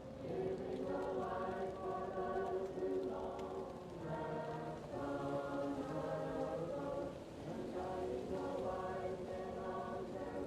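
Choir singing slow, held chords in phrases, muffled as if heard from another room, over a faint crackling fireplace.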